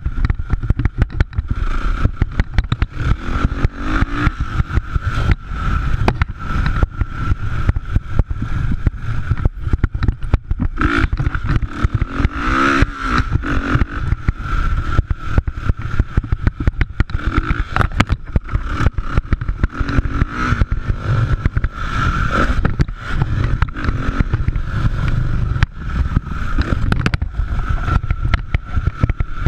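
Motocross motorcycle engines running and revving on the track, with a continuous rough, crackling sound and the pitch rising and falling now and then.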